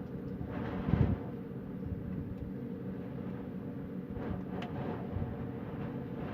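Wind blowing in a low, steady rumble, with a stronger gust buffeting the microphone about a second in.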